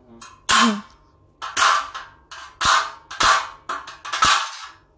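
Five loud, sharp cracks about a second apart, each with a short hissing tail, from tool work on a metal drywall-profile frame.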